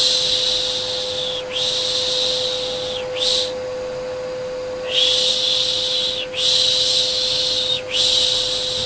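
A rhythmic 'shh, shh, sh' shushing of the kind used to soothe babies, in groups of two long hushes and a short one, with a pause of about a second and a half between groups. Under it runs the steady hum of a vacuum cleaner motor.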